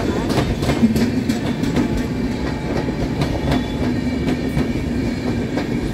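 Passenger coaches of an express train rolling past at speed: a steady loud rumble of steel wheels on rail with frequent clacks as the wheels pass over rail joints.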